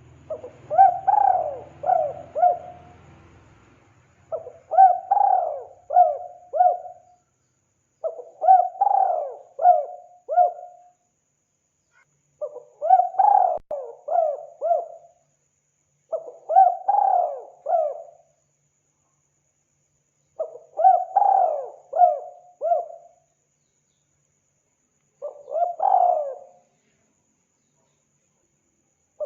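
Spotted dove (tekukur) cooing: seven phrases about four seconds apart, each a quick run of several coo notes.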